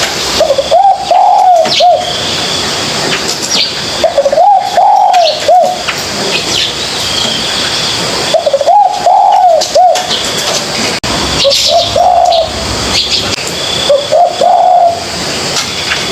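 Spotted dove cooing: five phrases of several rounded notes, one about every three to four seconds. Faint high chirps and a thin whistle from other birds sound behind it.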